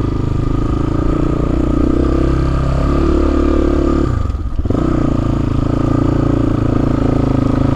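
Motorcycle engine running as the bike moves off with a rider and pillion passenger aboard. The revs dip briefly about four seconds in.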